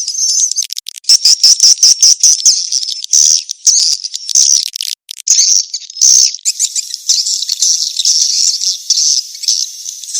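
Swiftlet 'kejar kawin' (mating-chase) lure call: dense, rapid, high-pitched twittering and clicking chirps, with brief breaks about one and five seconds in.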